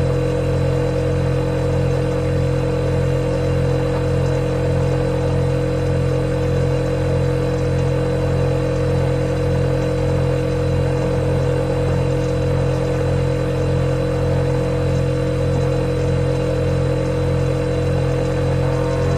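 Refrigerator running with a steady low hum and a fainter, higher steady tone above it.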